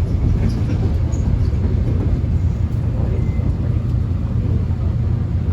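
Steady low rumble of a subway train running, heard from inside the carriage, with faint light rattles over it.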